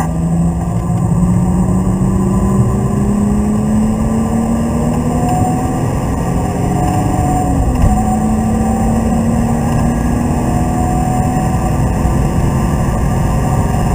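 BMW Z3 2.8's inline-six engine pulling under load, heard from inside the cabin over road and wind noise. Its pitch climbs steadily, falls sharply about eight seconds in, then holds level.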